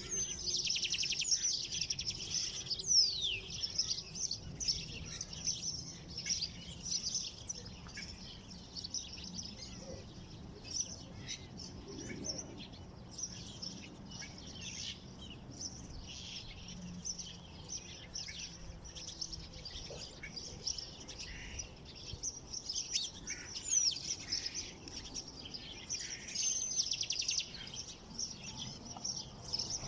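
Several small songbirds chirping and twittering in quick high trills, busiest near the start and again near the end.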